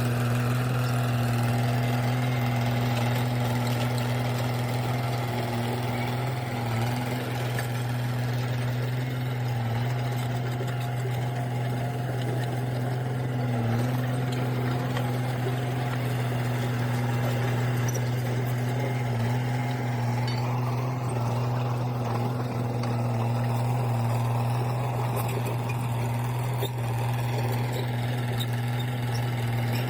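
Crawler tractor engine running at a steady speed, a constant low drone with faint mechanical clatter.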